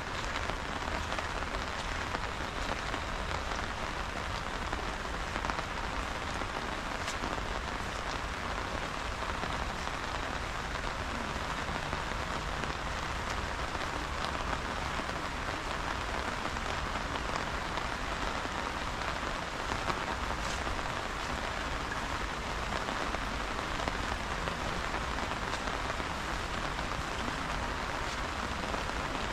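Steady rain falling, an even hiss with a few sharper drop hits here and there.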